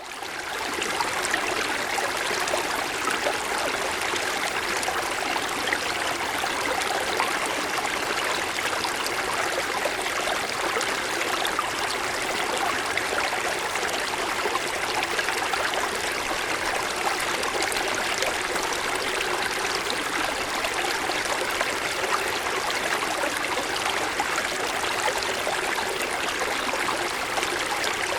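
Forest mountain stream flowing: a steady rush and babble of water, fading in over the first second.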